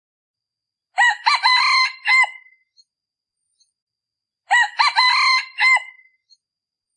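A male decoy junglefowl rooster crowing twice, each crow about a second and a half long, a few seconds apart. It is a lure call used to draw wild junglefowl.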